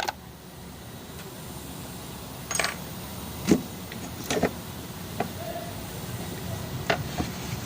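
A handful of sharp metallic clicks and knocks, irregularly spaced, from hand tools and parts being handled while an engine is being taken apart, over a steady low hum.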